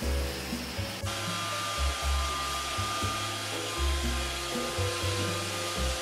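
A robot vacuum cleaner running, a steady high whine with hissing brush noise, which cuts in abruptly about a second in. Bossa nova background music with a deep, changing bass line plays throughout.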